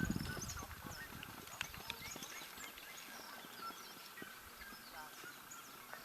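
A horse's hoofbeats fade out in the first moment, leaving many small birds chirping.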